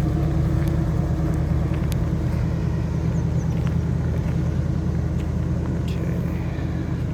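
A truck driving along: a steady low engine drone with road rumble, with a few faint clicks.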